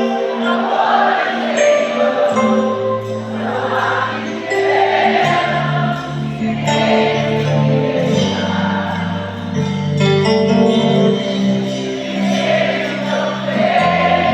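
A band playing the instrumental break of a slow romantic sertanejo ballad: held chords and a moving bass line, with light percussion ticks keeping time.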